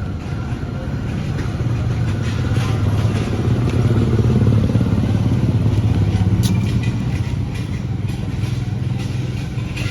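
An engine running steadily with a low, even hum; it grows louder about four seconds in and eases off again, with a few light clicks and clatter over it.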